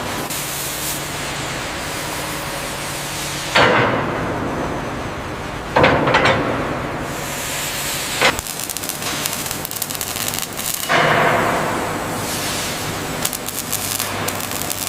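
Heavy-machinery factory noise: a steady hiss over a low machine hum. The sound changes abruptly about every two to three seconds, each time with a loud hit or burst.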